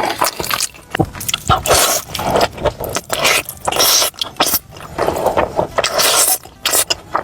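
Close-miked eating of stewed food: irregular, closely packed chewing and biting noises.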